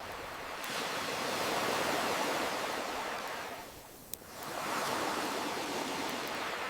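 Ocean waves washing in, swelling twice, with a lull about four seconds in. A single sharp campfire crackle pops during the lull.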